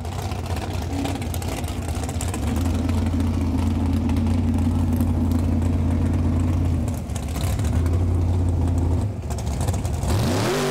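Car engine running with a steady, deep drone that dips briefly twice, then rises in pitch near the end.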